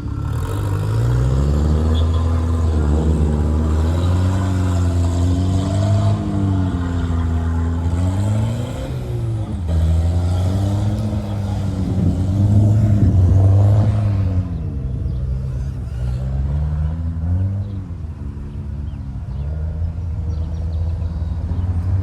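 Volvo 740 Turbo's turbocharged four-cylinder engine under hard driving, revving up and dropping back again and again. The engine is loudest about two-thirds of the way through, then eases off.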